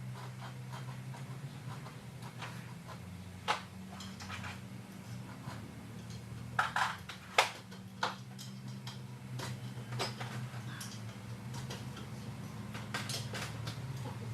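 Metal parts and tools clinking and knocking now and then, loudest around the middle, over a steady low hum.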